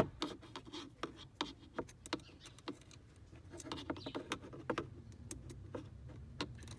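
Irregular small clicks, taps and scrapes of a tiny screw and tool being handled against car dashboard parts while the second mounting screw of a small audio board is fitted, over a low steady hum.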